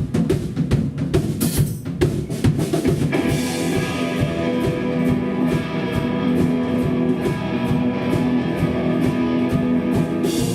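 Live hardcore punk band playing: drums pound alone for about the first three seconds, then electric guitar comes in with a held, ringing chord over the drums.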